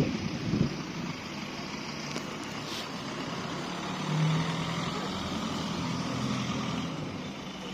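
Car engines running, with a low engine note that grows louder about four seconds in.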